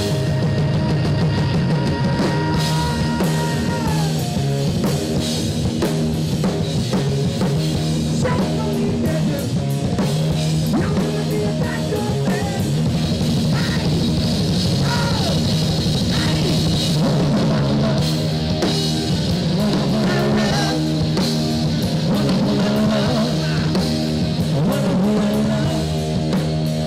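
Live rock band playing an instrumental passage: drum kit, bass and electric guitar, with a held guitar note that slides down about four seconds in.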